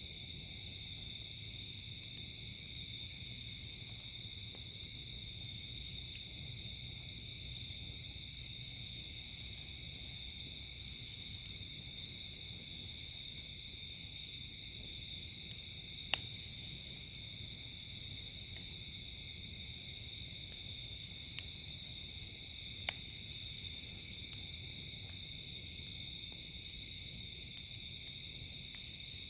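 Steady night chorus of crickets chirring, with a higher buzz from other insects that swells and fades every few seconds. A few sharp pops from the campfire stand out, twice in the second half.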